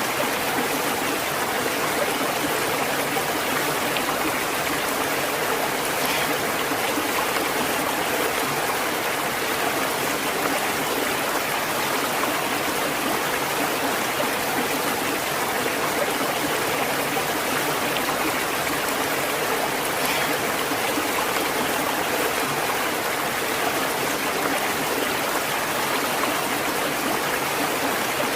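A stream of flowing water running over rocks, a steady, even rush with trickling and gurgling in it.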